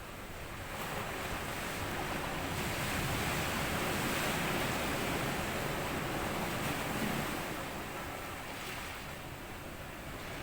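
Small sea waves washing up onto a sandy beach: one wave swells in about a second in, runs up the sand for several seconds and slowly draws back near the end.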